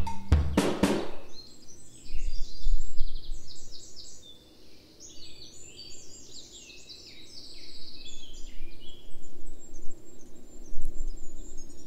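Songbirds chirping and singing, many short overlapping chirps, over a faint low outdoor rumble. Near the start, the last few drum hits of the background music end.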